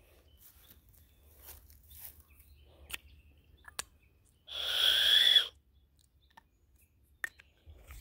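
A bird close by gives one loud call about a second long, midway through, with a rising note inside it. Faint footsteps crunch on dry leaf litter around it.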